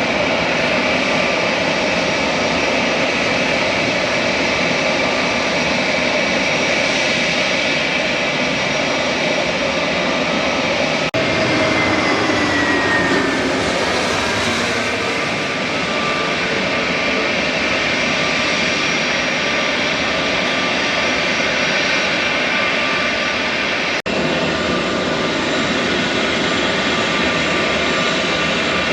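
Jet airliner engines running loud and steady, with several steady tones. About twelve seconds in, a whine falls in pitch as an aircraft passes. The sound breaks off briefly twice where the footage is cut.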